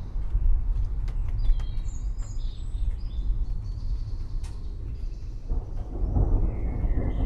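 Distant thunder rumbling low, swelling louder about five and a half seconds in, while forest birds chirp over it in short high calls and scattered drops tick.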